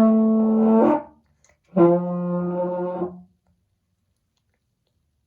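French horn playing two held notes: a loud one lasting about a second, then a slightly lower, quieter one of about a second and a half, blown as an imitation of car noises.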